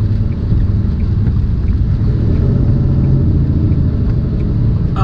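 Semi truck's diesel engine and road noise, a steady low rumble heard inside the cab, with faint ticks repeating about every two-thirds of a second.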